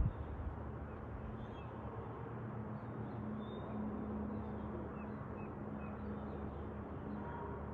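Steady outdoor rumble with a low hum. Faint, short, high bird chirps are scattered through it.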